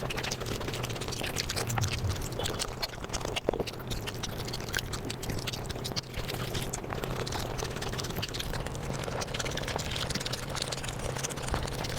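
Eating sounds sped up five times: chewing and mouth clicks of rice and curry, running together as a dense, steady stream of rapid clicks.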